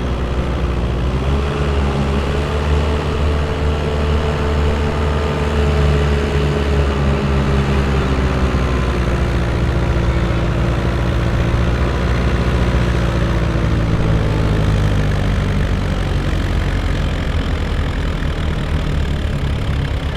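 Farm pulling tractor's engine working hard under load as it drags the weight-transfer sled. The pitch rises about a second in, then slowly drops as the sled's load builds, and the sound eases off near the end.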